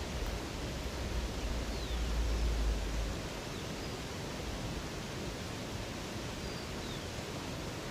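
Steady rush of a river's flowing water, with a few faint, short downward-sliding bird chirps high above it. A low rumble under the water sound fades out about three seconds in.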